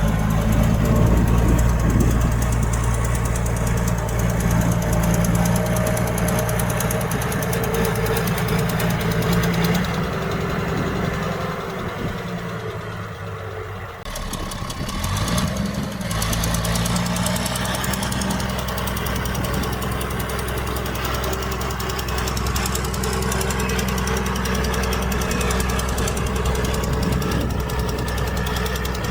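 Heavy diesel engine of earthmoving machinery running steadily under load. It eases off near the middle, then picks up again with a brief rising rev.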